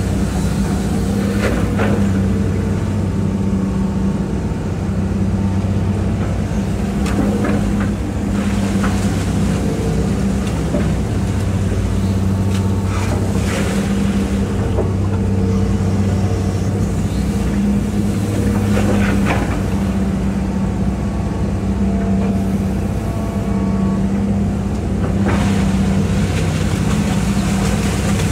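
Hitachi EX200-5 excavator's diesel engine running steadily under hydraulic working load, its note shifting slightly as the machine digs, with a few short knocks or clunks spread through it.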